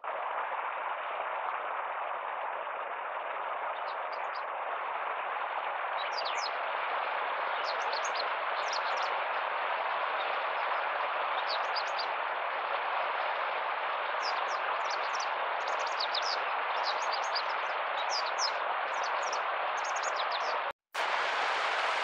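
Short, high chirps from a small bird, scattered at first and coming in quick runs through the second half, over a steady rushing background noise. The sound drops out briefly near the end.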